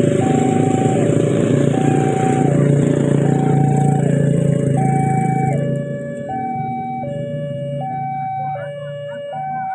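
Railway level-crossing warning alarm sounding a two-tone signal, switching between a high and a low note about every three-quarters of a second. Over it, a passing container train rumbles loudly and then falls away about five and a half seconds in.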